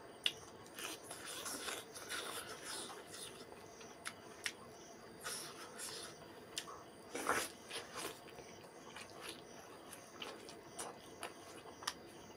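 Close-up eating sounds of a man chewing mouthfuls of rice with fried fish and fried egg: irregular small mouth clicks and wet chewing, with a louder one about seven seconds in.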